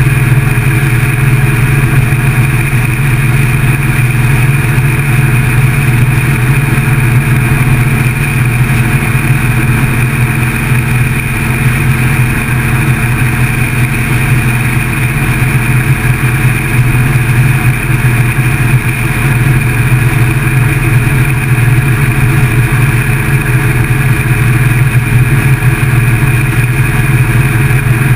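Motorcycle engine running steadily with no revving or gear changes, heard from a camera mounted on the bike.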